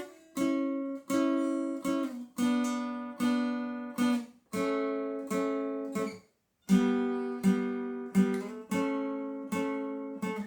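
Acoustic guitar played slowly as two-note shapes on adjacent strings, mostly the second and third, plucked one after another and each left to ring, about one every 0.7 s with a brief pause past the middle.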